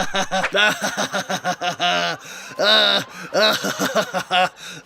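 A voice making short wordless sounds in quick succession, like chuckling and snickering.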